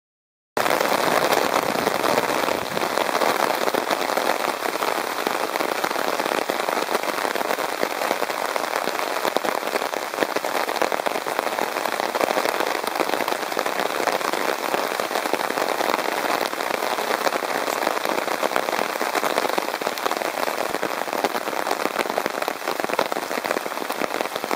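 Heavy rain falling steadily: a dense, even hiss of countless drop hits, starting abruptly about half a second in.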